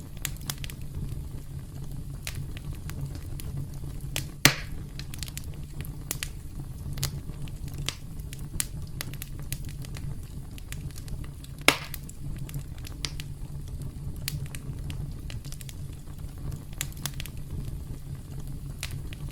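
Campfire crackling: a steady low rumble of burning wood under many scattered sharp crackles, with two louder pops, one about four seconds in and one near the middle.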